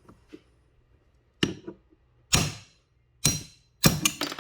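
Four ringing metal hammer blows, about a second apart, on a socket used as a drift to drive the worn bushing out of an ATV clutch cover.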